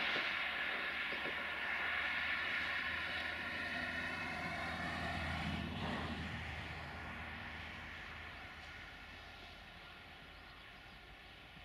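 A diesel train moving away: a steady engine drone with rail noise, fading out gradually.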